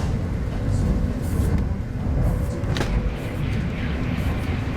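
Steady low rumble of a 25T-series railway passenger coach running along the line, heard from inside the carriage, with a few faint ticks and rattles.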